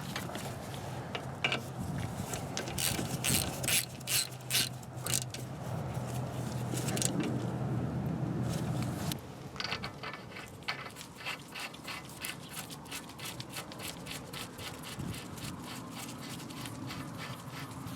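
Ratchet wrench clicking as fasteners are turned, over a low steady hum that stops about halfway through; after that comes a run of quick, even ratchet clicks.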